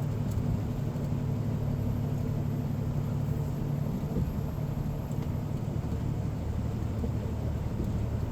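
A semi-truck's diesel engine running steadily at cruise, with road noise, heard inside the cab while hauling a loaded fuel tanker.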